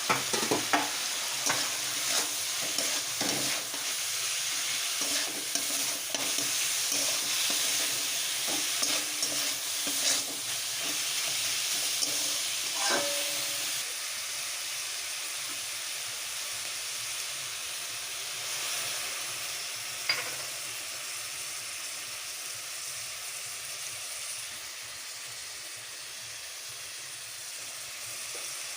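Food sizzling in hot oil in a pan, with a utensil knocking and scraping against the pan as it is stirred for the first half. After that the sizzling goes on steadily, with one more knock a little past two-thirds of the way in.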